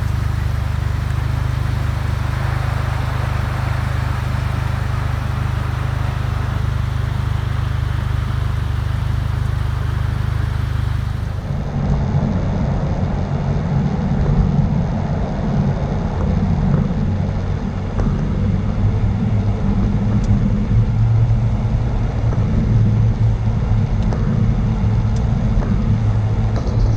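Jeep driving, heard from inside the cabin: a steady low engine and road drone. About 11 seconds in it changes suddenly to a rougher, uneven rumble.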